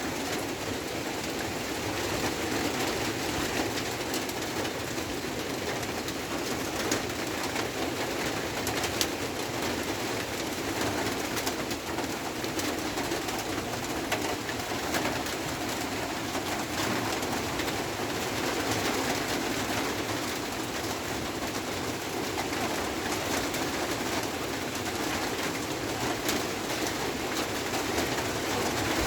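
Steady rain falling, an even hiss with fine pattering of drops throughout.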